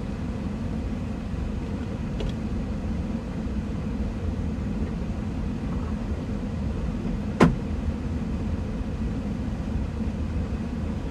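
Steady low rumble of a car idling at a gas pump, with one sharp click about seven seconds in and a fainter click about two seconds in.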